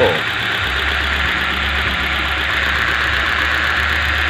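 Hyundai i20 petrol engine idling with one ignition coil unplugged during a cylinder-by-cylinder test for a misfire; its low engine note grows heavier about half a second in and then runs steadily.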